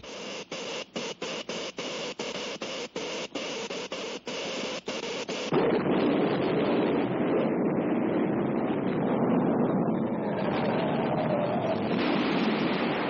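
Cartoon sound effects of an electrical machine: a hissing crackle broken by rapid stutters, then, about five and a half seconds in, a sudden, louder, steady rumble like an earthquake.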